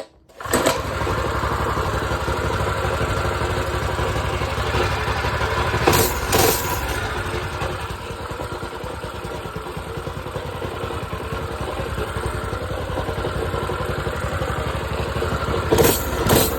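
Predator 212 single-cylinder four-stroke engine on a minibike, running steadily at a low, even speed. It cuts in just after the start, with two brief louder bursts, one about six seconds in and one near the end.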